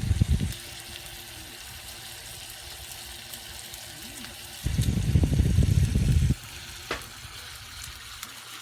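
Pork stomach (gatsu) sizzling steadily in a Uniflame 7-inch cast-iron skillet over a campfire. There is a louder stretch of low rumbling and knocking at the start and again about five seconds in, lasting a second and a half.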